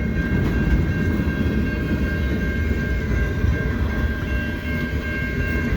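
A long, slow freight train's cars rolling past over a level crossing: a steady rumble with a thin, steady high tone above it.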